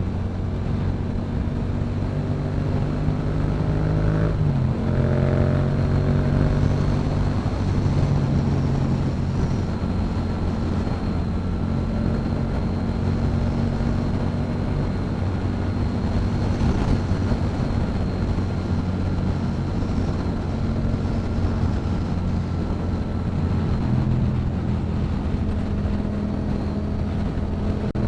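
Yamaha MT-07's parallel-twin engine through a Yoshimura exhaust, pulling up through the revs, shifting gear about four and a half seconds in and pulling again, then holding a steady cruise.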